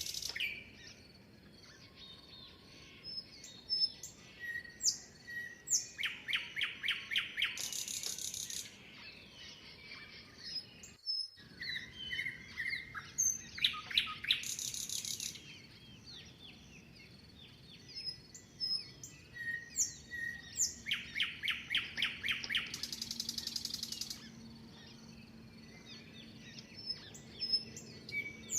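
Several songbirds singing: rapid trilled phrases come every several seconds, with short whistled notes and chirps in between. The sound drops out completely for a moment about eleven seconds in.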